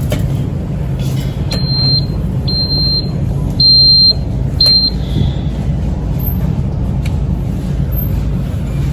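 Motorized shopping scooter's reverse-warning beeper sounding four times, about once a second, over a steady low hum.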